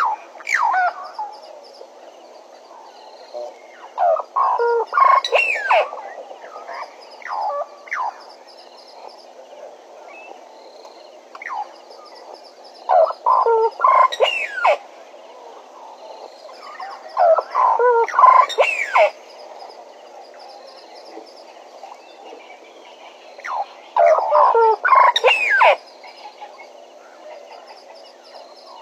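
Bennett's woodpecker giving harsh, chattering calls in bursts of one to two seconds, about six bursts spaced several seconds apart.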